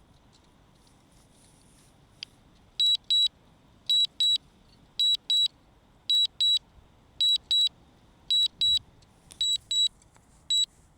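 Warning alarm from a DJI Mavic Mini's controller: high electronic double beeps, about one pair a second, starting about three seconds in.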